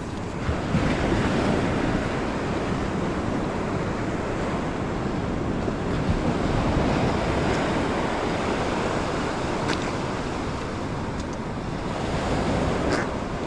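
Ocean surf washing on a sandy beach, swelling and easing as waves come in, with wind buffeting the microphone.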